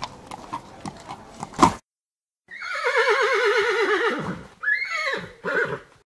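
Horse hooves stepping, a run of knocks ending in a louder strike; after a short gap a horse whinnies, one long quavering call falling in pitch, then two shorter calls near the end.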